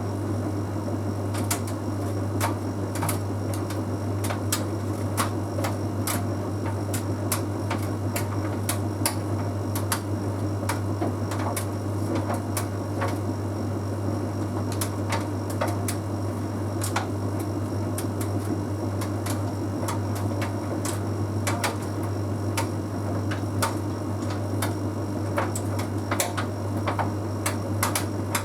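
Bosch Series 6 heat pump tumble dryer running mid-cycle on a half load of synthetics: a steady low hum with irregular light clicks and taps, several a second, from the tumbling drum.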